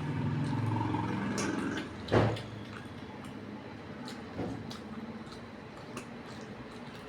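Eating by hand: small wet clicks and squishes of chewing and of rice and fish curry being mixed with the fingers. A low hum fills the first two seconds, and one sharp knock comes about two seconds in.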